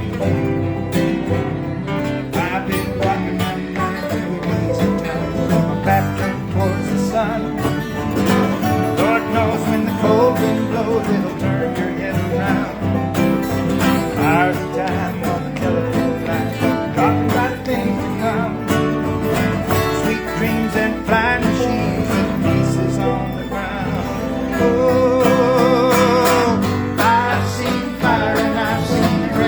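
Acoustic country string band playing an instrumental passage between verses, guitars to the fore, with a held, wavering melody note near the end.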